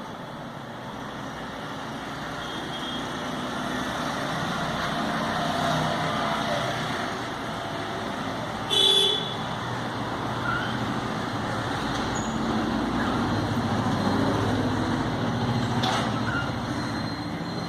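Steady rumbling vehicle noise that slowly grows louder, with a brief horn-like toot about nine seconds in.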